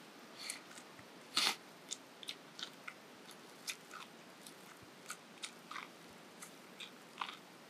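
Crisp bites and chewing on an ear of corn on the cob: a sharp crunch about a second and a half in, then a run of smaller crunches and clicks.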